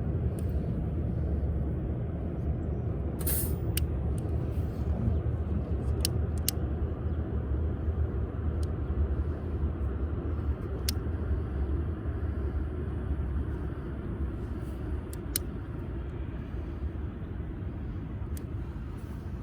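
Wood fire burning in a wood grill, with a handful of sharp, isolated crackles and pops over a steady low rumble.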